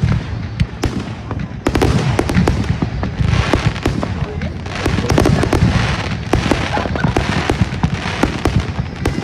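Consumer fireworks going off in a rapid, continuous barrage: many sharp bangs a second over a dense rumble and crackle.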